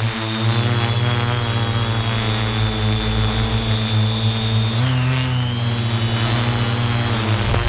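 Multirotor drone's motors and propellers buzzing steadily, with a high whine over the hum that dips in pitch and comes back up about five seconds in as the motor speed changes.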